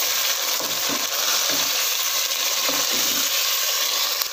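Raw chicken pieces sizzling steadily in hot oil with fried onions and ginger-garlic paste in a non-stick pot, stirred with a wooden spoon.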